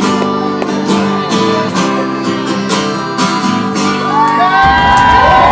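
Acoustic guitar strummed in steady chords. Near the end a louder low rumble sets in abruptly, with high squealing tones that glide up and down over it.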